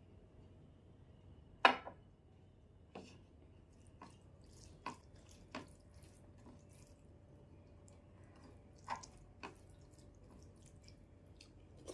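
A handful of separate short, wet clicks and smacks of eating rice with a thin fish curry, the loudest about a second and a half in.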